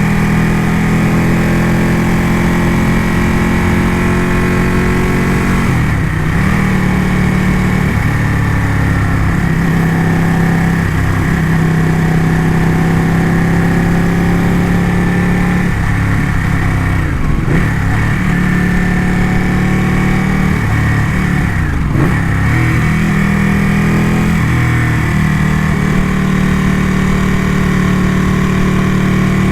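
Ducati motorcycle engine running on the move, a steady note whose pitch dips and climbs back about four times as the throttle is eased and reopened.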